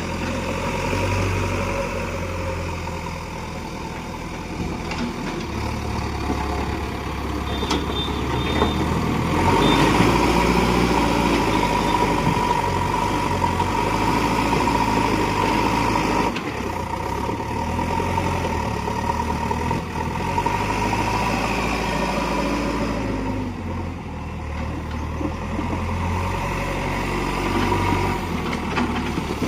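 Diesel engine of a heavy vehicle running, its low hum stepping up and down in pitch as the engine speed changes, and growing louder about a third of the way through.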